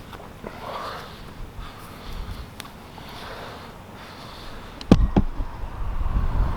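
A person breathing hard after a steep climb, roughly one breath a second. About five seconds in come two sharp knocks close together, then a low rumble of wind on the microphone.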